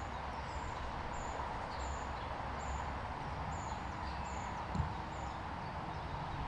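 Outdoor garden ambience: a small bird repeats a short high chirp about every three quarters of a second over a steady background hiss, with one brief knock about five seconds in.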